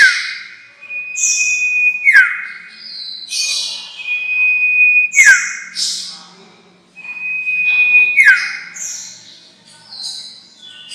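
Sirtu songbird calls, used as a lure sound: a long, steady, high whistle followed by a sharp down-slurred note with a buzzy burst above it. The phrase repeats about every three seconds, with shorter high chirps between.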